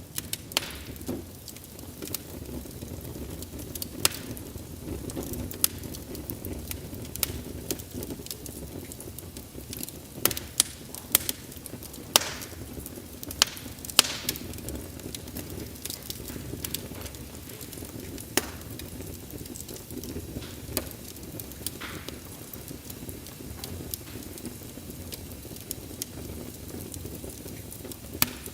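Wood fire crackling: irregular sharp pops and snaps, a few louder ones about halfway through, over the steady low rush of the flames.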